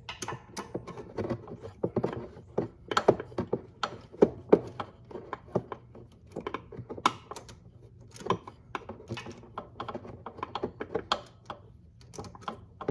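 Hand tools working the exhaust fasteners on a Honda Navi: irregular metallic clicks, taps and knocks as the bolts are loosened.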